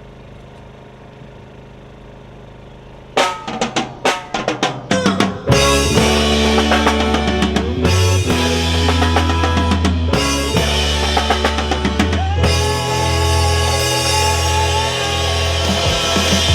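A low steady hum, then about three seconds in a drum kit starts a song with a run of hits. A couple of seconds later the full band comes in with a heavy bass line and other instruments, playing live.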